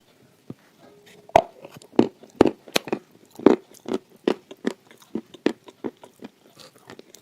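Close-up crunching of hard red edible clay (khawa) being bitten and chewed, a sharp crunch about twice a second from about a second and a half in.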